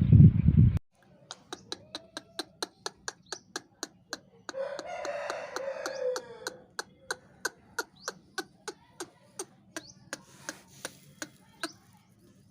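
A loud rushing noise cuts off abruptly in the first second. Then come sharp clicks ticking evenly about three times a second, with a rooster crowing once, for about a second and a half, about four and a half seconds in.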